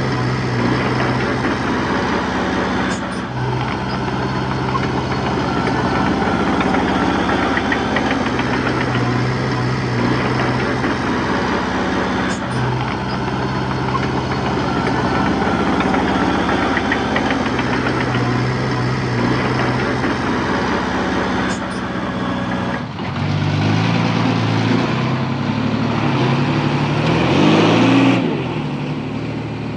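Heavy diesel engine of earthmoving machinery running steadily, its sound swelling and easing every few seconds as the load changes. Near the end the tone changes and the engine briefly revs higher, then drops back.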